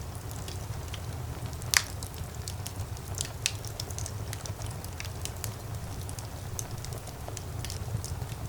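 Wood fire crackling in a fireplace: scattered sharp snaps and pops over a steady low rumble, with one louder pop about two seconds in.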